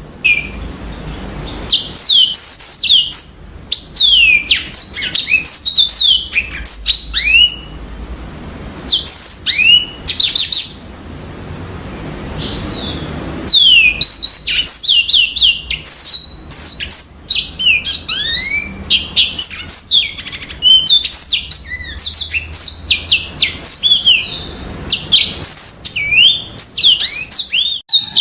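Yellow-fronted canary (Mozambique canary) singing: long, rapid phrases of high, quickly sweeping notes, mostly falling in pitch, broken by a few short pauses.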